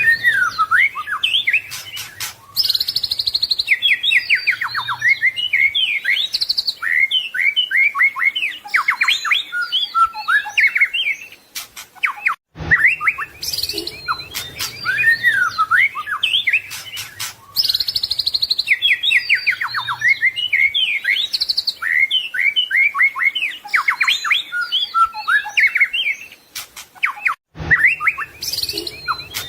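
White-rumped shama singing a fast, varied song of rich whistles, trills and rapid chirp series, packed with mimicked phrases. The same song passage of about fifteen seconds repeats, with a brief break about twelve seconds in and another near the end.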